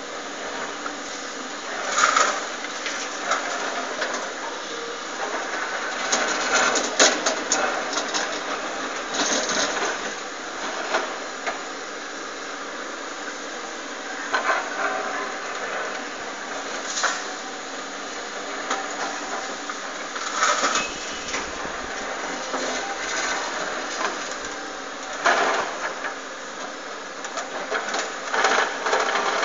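Hydraulic excavator working with its engine and hydraulics running steadily, and a loud clatter every few seconds.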